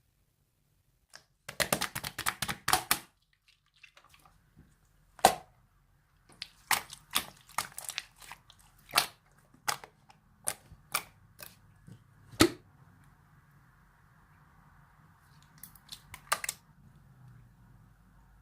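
Orange marbled slime being pressed and worked by hand: a quick run of sticky clicks, then single sharp pops every second or so as air pockets in the slime burst.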